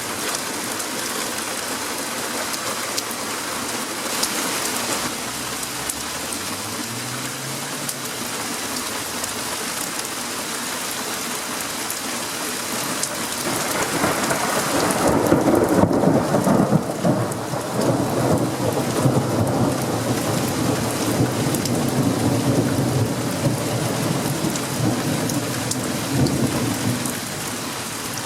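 Steady rain hissing throughout. About halfway through, a long roll of thunder builds, peaks a couple of seconds later and keeps rumbling for over ten seconds before dying away near the end.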